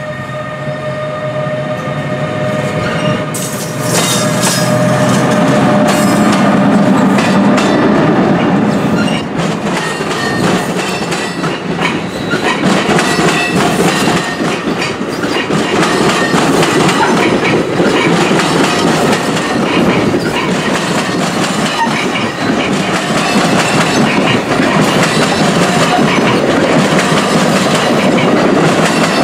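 NJ Transit train horn holding a steady chord, which cuts off about three and a half seconds in. Then the electric locomotive and its bi-level commuter coaches pass close by with a loud rumble and rapid clickety-clack of wheels over the rail joints.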